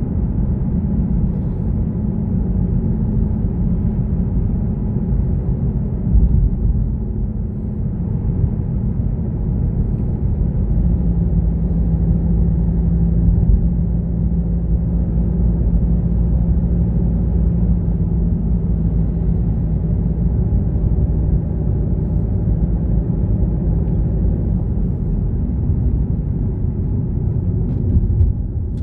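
A car being driven: a steady low rumble of engine and road noise, with a steady engine tone that stands out through the middle.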